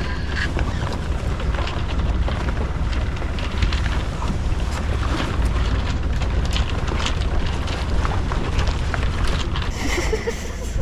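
Wind buffeting the microphone aboard a small sailing yacht under way, a steady low rumble with scattered short clicks and splashes.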